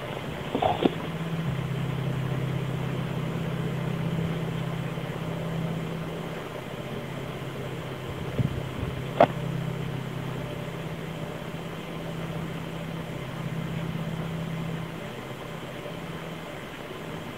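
A steady low droning hum made of two low tones that waver slightly, the sound the uploader presents as the unexplained 'Hum'. A few short sharp clicks sound about a second in and around nine seconds.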